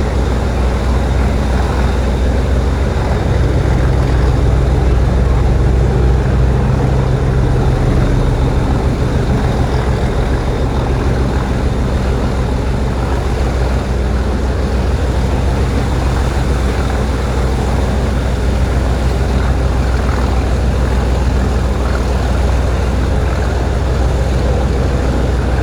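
English Electric 12CSVT V12 diesel engine of a Class 37 locomotive working hard under power, a loud, steady, deep engine drone that swells a little a few seconds in.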